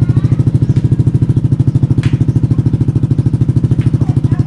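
Motorcycle with an SC Project aftermarket exhaust with a modified elbow, idling with a steady, even rapid pulse.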